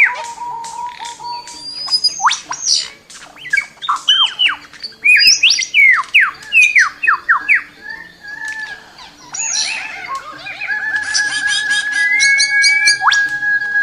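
Birds calling: a rapid series of sharp, downward-sliding whistled calls mixed with chattering. A long, steady whistle-like tone sets in about three quarters of the way through.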